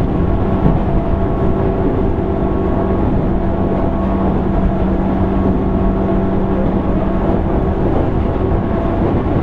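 JR East 205 series 600-subseries electric train running, heard from inside motor car MoHa 204-604. A steady mechanical hum holding one pitch sits over a constant rumble of the wheels on the track.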